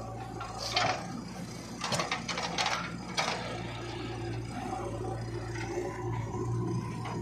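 JCB 3DX backhoe loader's diesel engine running steadily, with a few short scrapes and clatters in the first few seconds, typical of the bucket working soil.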